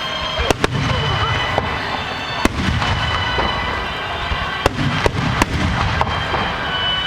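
Fireworks display: aerial shells bursting in a run of sharp bangs, about seven in all, over a continuous rumble and crackle of other bursts.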